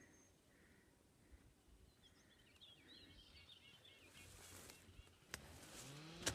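Faint outdoor ambience with a short run of bird chirps about two to three seconds in, then two sharp clicks and a low rising hum near the end.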